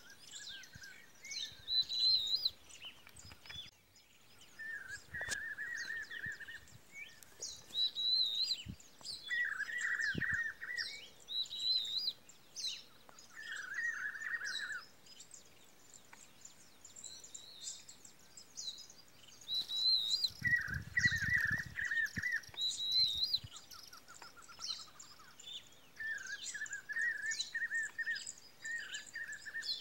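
Wild birds calling: a chattering phrase about a second long recurs every few seconds, with higher chirps in between. A short low rumble, like wind or handling on the microphone, comes about two-thirds of the way through.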